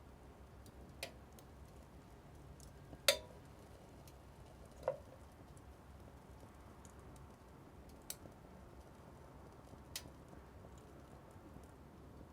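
Small wood fire burning in a mini wood stove, crackling: a handful of sharp pops a second or two apart, the loudest about three seconds in, with fainter ticks between them.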